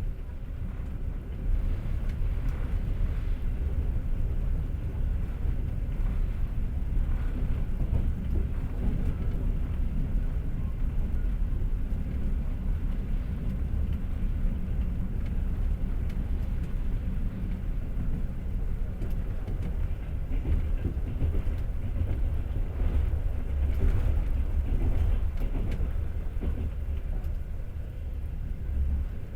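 Passenger train running along the track, heard from inside the carriage: a steady low rumble of wheels on rails with faint scattered clacks. The rumble grows louder about a second and a half in.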